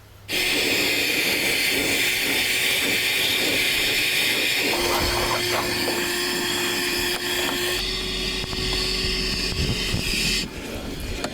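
Vacuum cleaner switched on and running with a steady rushing hiss and a hum; it starts abruptly and drops in level near the end.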